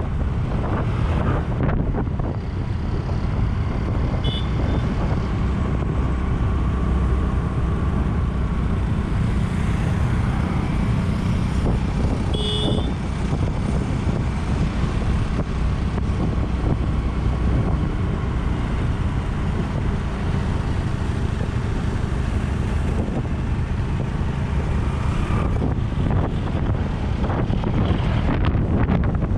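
Steady rumble of a road vehicle on the move, mixed with wind buffeting the action camera's microphone. Two short high beeps sound, about four seconds in and again about twelve seconds in.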